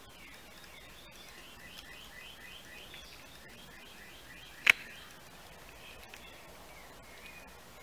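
A faint bird trill of short repeated chirps, about four a second, over the first half; a single sharp click a little past the middle is the loudest sound.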